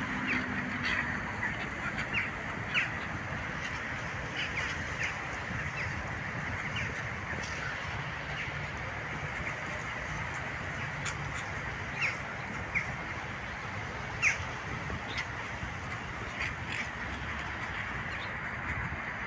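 Ducks at a pond calling in short, scattered quacks over a steady background hiss. A few calls are louder, about three seconds in and around twelve to fourteen seconds in.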